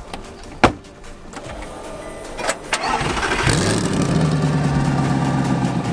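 A sharp thump a little over half a second in, a couple of clicks, then the twin-turbo Audi R8 V8 cranks and fires about three and a half seconds in, settling into a steady, loud high idle.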